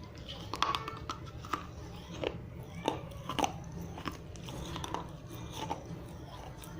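Dry red clay diya being bitten and chewed close to the microphone: irregular sharp crunches and cracks as the clay breaks between the teeth.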